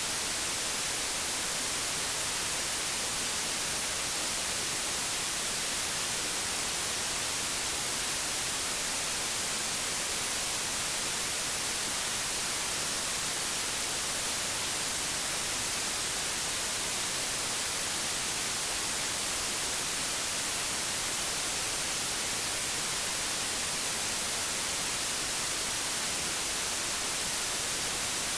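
Analogue television static: a steady, even hiss, strongest in the highs, unchanging throughout.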